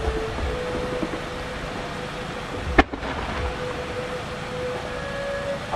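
Outdoor fireworks-show ambience between bursts: a steady low rumble with a faint steady tone, broken about three seconds in by one sharp bang, the mortar launch of a large 10-inch (size 10) aerial shell whose rising tail follows.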